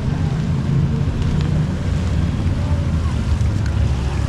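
Wind rumbling on the microphone, a steady low buffeting, with faint voices in the background.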